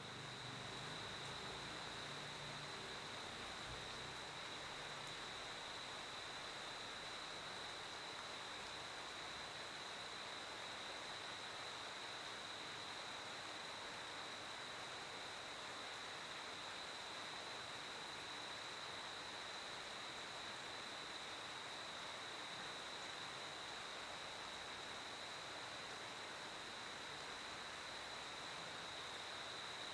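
Cricket chirping as a steady, unbroken high trill over a constant hiss.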